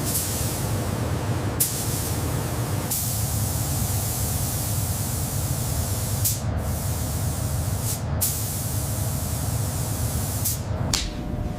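Steady spraying hiss over a low hum, changing abruptly several times.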